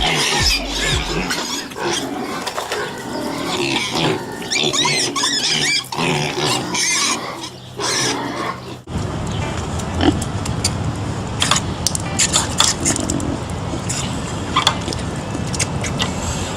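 Pigs calling, with pitched calls that rise and fall through the first nine seconds or so. Then the sound cuts abruptly to a steady noisy background with scattered sharp clicks.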